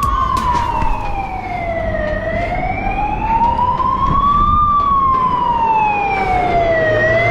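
Emergency vehicle siren wailing, its pitch sliding slowly down and back up in long sweeps of about two and a half seconds each, over a low rumble.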